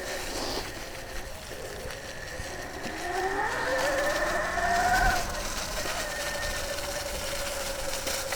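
Sur Ron Light Bee electric motorcycle's motor whining under way. The pitch rises as the bike speeds up about three seconds in, then holds steady.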